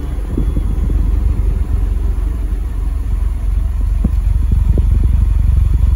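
Exhaust of a Skoda Fabia 1.4 idling, heard close at the tailpipe as a loud, low, rapid pulsing that grows louder over the first second. The engine runs rough and vibrates, and knocks and burns oil since its bent valves were replaced.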